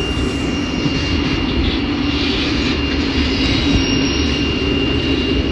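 White Pass & Yukon Route narrow-gauge train running along the track, heard from aboard as a steady, loud rumble of the moving cars, with a thin steady high tone running through it.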